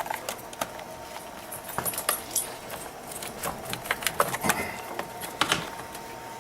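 Irregular metallic clicks and clinks as a car battery terminal is disconnected.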